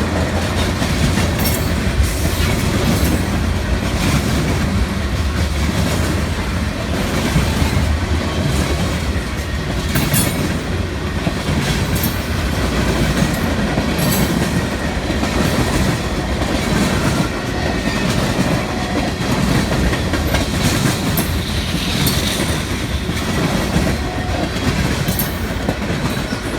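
CSX freight train's cars rolling past close by: a steady heavy rumble with irregular clicks and clatter of wheels over rail joints.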